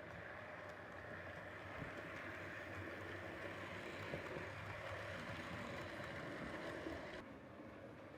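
Model railway locomotive running along the track: a steady motor hum with rolling wheel rumble that grows a little louder, then changes abruptly about seven seconds in.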